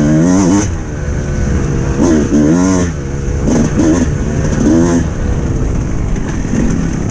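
Suzuki RM 300cc two-stroke motocross bike engine revving in repeated bursts, each rising in pitch and then dropping off as the throttle is rolled back, four or five times in the first five seconds, then running steadier and lower.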